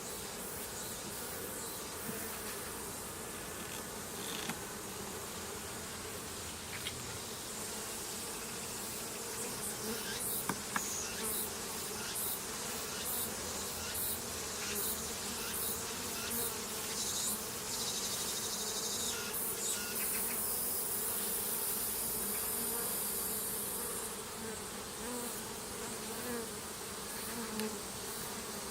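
A mass of honeybees buzzing in a steady drone. Scattered light clicks come through in the middle, and a brief stretch of high hiss follows about two-thirds of the way through.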